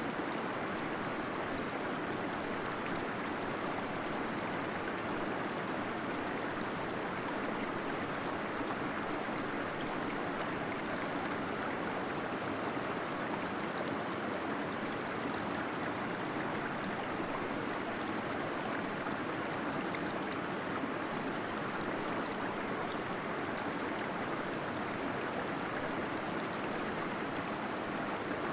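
Small waterfall splashing and gurgling steadily inside a cave.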